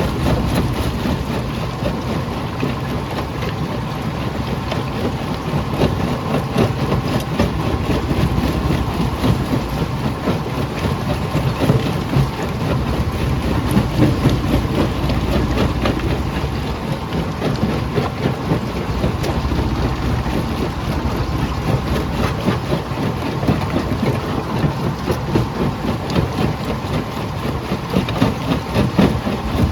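Jaw crusher running under load: a steady low mechanical rumble with a constant clatter of knocks and cracks from rock being broken between the jaws.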